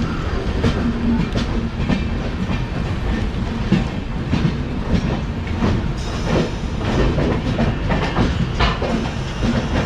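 Mandovi Express running on the rails: a steady low rumble with irregular clattering clicks of the wheels over rail joints and points, the clicks coming thicker in the second half.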